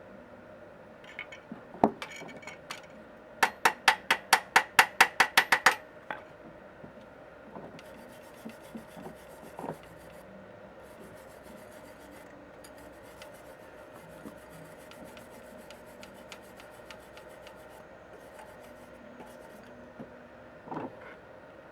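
A hand tool scraping metal. After a single knock comes a quick run of about a dozen strokes, about five a second, then fainter fine scratching with a few small knocks.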